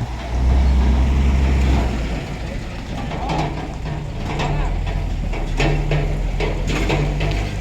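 Heavy truck running, with a low rumble at first and then a run of sharp metallic clanks and knocks from about three seconds in.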